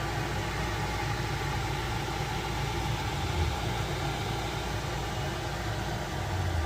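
Steady mechanical hum of a Prusa XL 3D printer's fans running with the finished print cooling on the bed.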